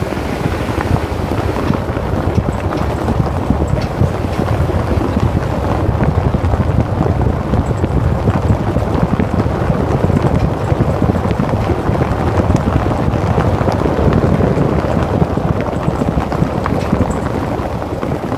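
Toyota Land Cruiser Prado KZJ120 driving over cobblestones: a steady road rumble, with occasional loose metallic clunks and rattles from the front suspension on minor bumps, about three seconds in, about five seconds in and near the end.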